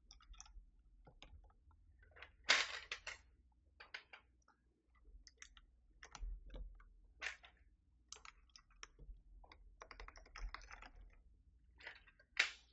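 Keystrokes on a Keychron V6 Max mechanical keyboard with foam inside: irregular clacks, a loud cluster about two and a half seconds in and a quick run of typing past the middle.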